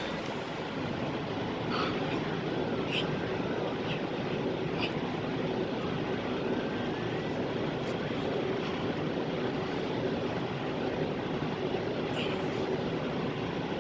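Steady road and engine noise inside a semi-truck's cab while it drives along the highway.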